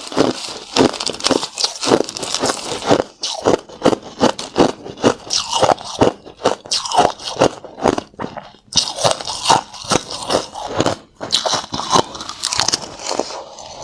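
Hard crushed ice being bitten and chewed close to the microphone: a rapid, uneven run of crisp crunches, several a second.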